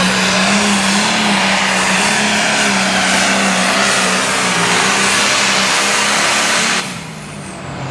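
Turbocharged diesel engine of a limited pro stock pulling tractor running loud and steady at one pitch. It cuts off sharply about seven seconds in, leaving a faint falling whistle.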